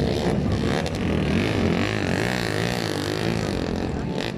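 Motocross bike engines running, their pitch rising and falling with the throttle.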